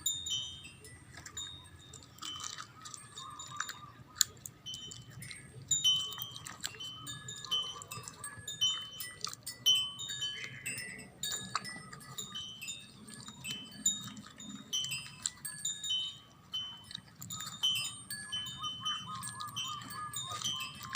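Wind chimes tinkling on and off, many short high ringing notes at different pitches.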